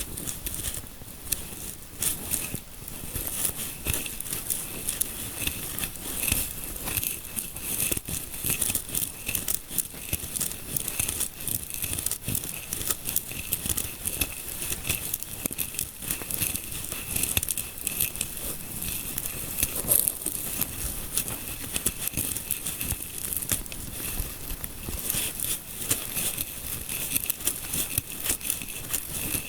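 Fingertips scratching and rubbing through hair in a scalp massage, a dense, steady crackling rustle made of many tiny clicks, close to the microphone.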